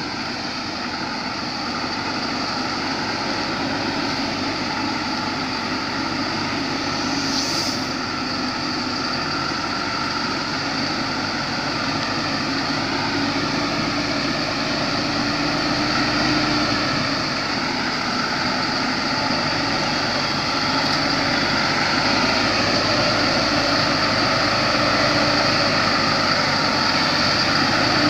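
Vehicle engine running steadily with road noise, slowly growing louder toward the end.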